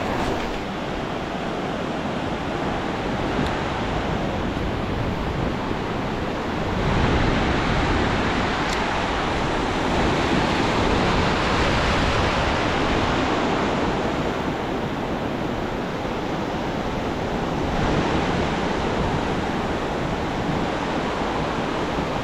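Ocean surf on a beach, waves breaking and washing in as a steady rush that swells in the middle and again near the end, with some wind on the microphone.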